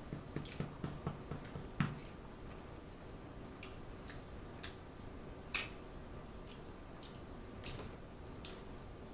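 Close-miked chewing with the mouth closed: soft wet mouth clicks and smacks. A quick run of them comes in the first two seconds, then single clicks every half second to second, the sharpest a little past halfway.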